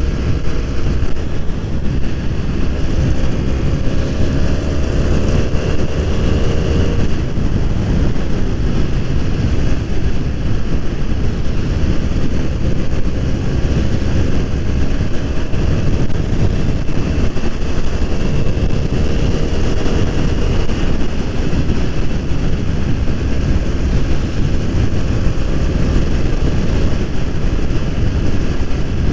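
BMW F 800 R motorcycle under way, its parallel-twin engine pulling under heavy wind noise on the microphone. Twice the engine note climbs steadily and then drops suddenly as the rider shifts gear, first about seven seconds in and again about twenty seconds in.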